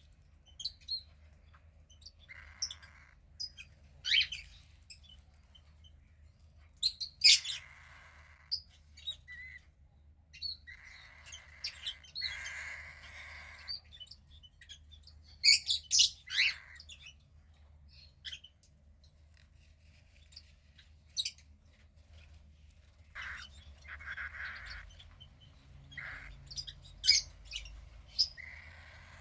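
15-day-old cockatiel chick calling on and off, with sharp high chirps and longer raspy, hissing calls in between pauses.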